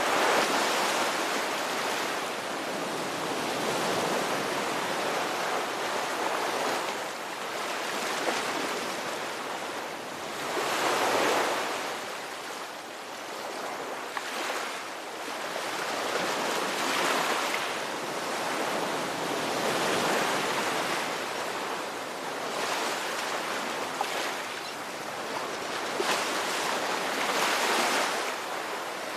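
Ocean waves breaking and washing on the shore, rising and falling in swells every few seconds, with the loudest surges about 11 s in and near the end.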